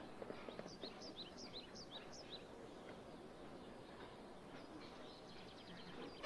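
Faint outdoor ambience with a small bird chirping: a quick run of short, high, falling notes, several a second, in the first couple of seconds, then a few fainter calls.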